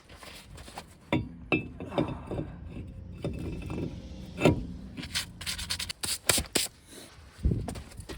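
Hand tools and metal parts being handled in brake work: a string of irregular clanks and knocks with scraping, over a steady low hum.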